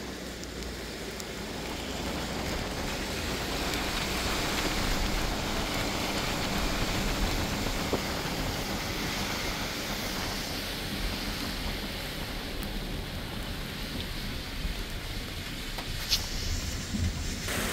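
Steady hiss of heavy rain on a city street mixed with vehicles on the wet road, the hiss swelling for several seconds and then easing as traffic goes by. A single sharp click about sixteen seconds in.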